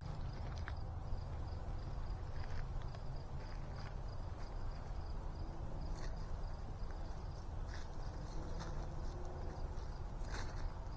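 An insect trilling steadily at a high pitch, over a low steady rumble, with a few faint scattered ticks.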